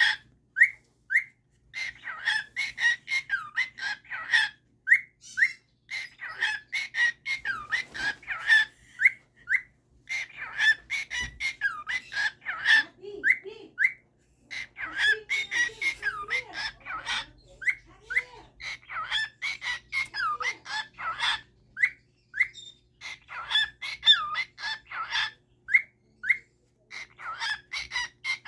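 Pet bird calling in runs of short, quick chirping whistles, several a second, with brief pauses between the runs.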